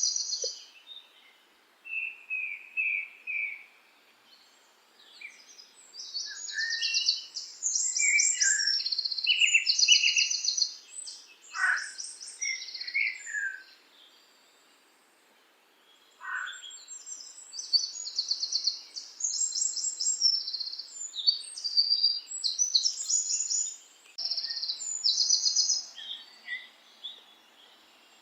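Songbirds singing in quick, high trilled phrases and short chirps, with a pause of about two seconds a little past the middle.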